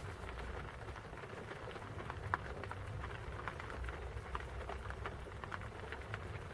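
Steady rain falling, with individual drops landing as scattered, irregular ticks.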